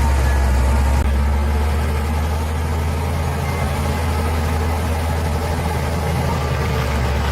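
Bulldozer's diesel engine running steadily with a deep, even drone, easing off slightly about a second in.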